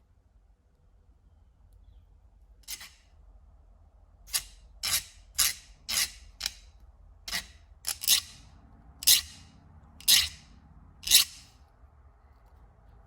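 About a dozen short, separate scraping strokes, spaced unevenly, starting a few seconds in.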